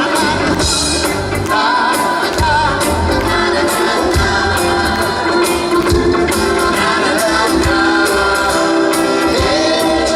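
Live band music with singing and a steady beat.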